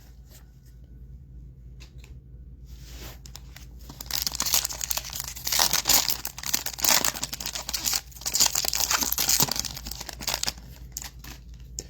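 A trading card pack wrapper being torn open and crinkled by hand: faint handling clicks at first, then a spell of tearing and crinkling from about four seconds in to about ten.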